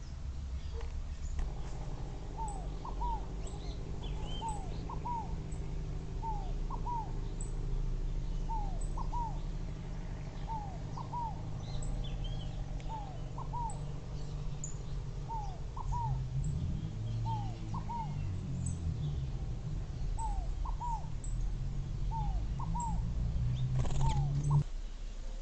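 A wild bird repeatedly giving a short two-note call, about one pair a second, with faint high chirps of other small birds, over a steady low rumble. A knock sounds near the end, and the rumble cuts off with it.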